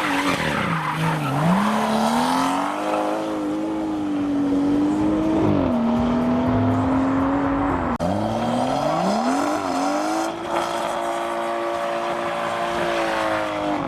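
Modified car's engine revving hard and held at high revs for seconds at a time, dropping twice and climbing back. The revs cut off abruptly at the end.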